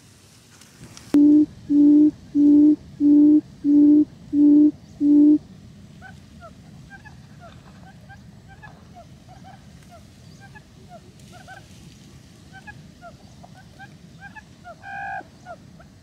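A bird's deep hooting call: seven even, loud notes about half a second apart, followed by many short, rising chirps of other birds and one louder call near the end.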